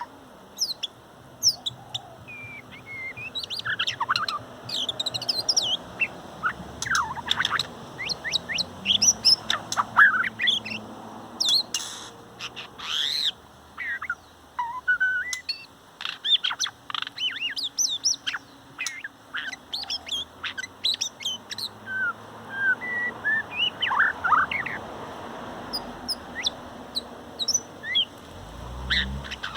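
Male shama singing a long, varied song of clear whistles, quick sweeping notes and sharp chirps, delivered in bursts with short pauses.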